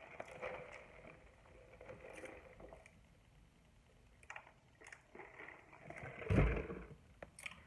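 Close-miked eating sounds: chewing with small wet mouth clicks, and a louder thump about six seconds in.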